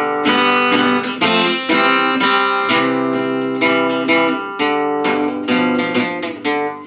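Acoustic guitar strummed in a steady rhythm, about two strums a second, with no singing over it.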